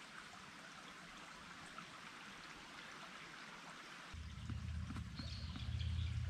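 Steady faint rushing like running water from a stream. About four seconds in, a louder low rumble sets in underneath.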